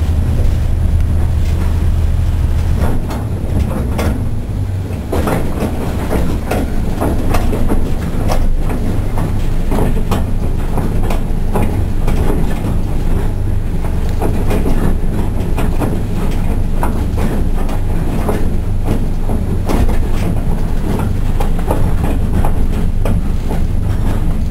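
Small diesel railcar running along the line, heard from inside the car: a low engine drone that eases about three seconds in, under a steady rumble, with sharp wheel clicks over the rail joints, often in pairs, coming every second or so.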